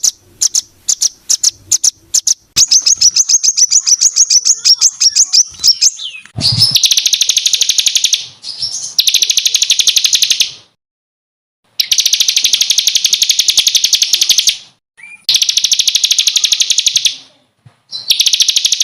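Songbird singing rapid-fire 'tembakan' trills, coarse and closely packed: after a run of scattered sharp chirps, bursts of fast, dense, high-pitched repeated notes lasting a few seconds each, separated by short pauses.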